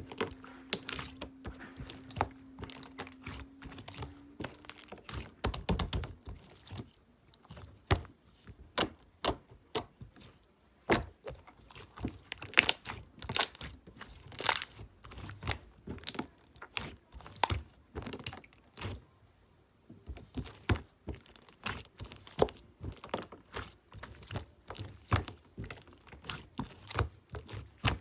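Slime being squeezed, folded and pressed by hand, giving many irregular sharp clicks and pops. A faint steady hum runs under the first few seconds.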